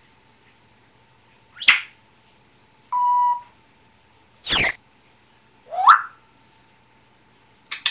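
African grey parrot giving four short whistles and calls, each a second or more apart: a quick chirp, a steady beep-like tone held for about half a second, a loud sharp whistle that slides down, and a rising whistle.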